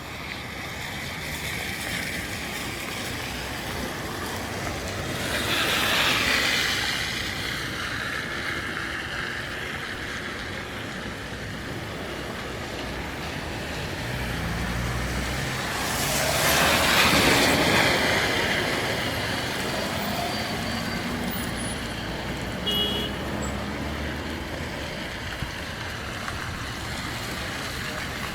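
Street traffic: steady road noise with two vehicles passing by, the first about six seconds in and a louder one near the middle.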